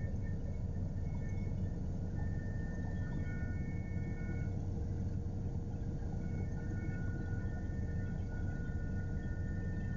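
Helicopter in flight heard from aboard: a steady low drone of rotor and engine, with a steady mid tone and higher whining tones that come and go.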